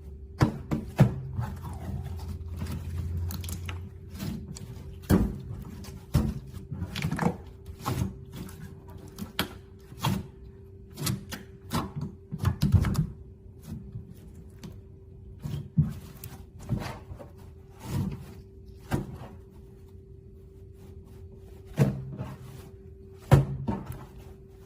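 Clear slime being pressed, squished and stretched by hand, giving sticky pops and clicks at irregular intervals.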